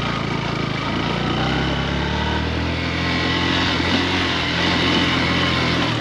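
Motorcycle engine running at a steady, low pace while riding, with road and wind noise.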